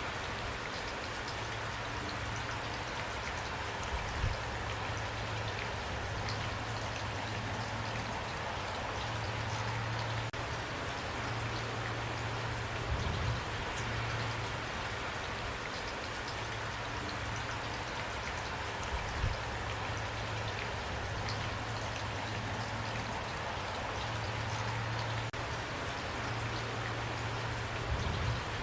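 Steady rain, a dense patter of drops falling on a surface. Under it runs a low hum that fades in and out, and a few soft low thumps stand out now and then.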